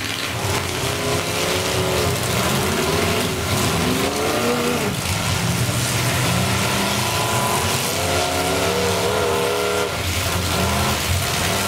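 Demolition derby car engines revving, their pitch rising and falling again and again, with several engines running at once.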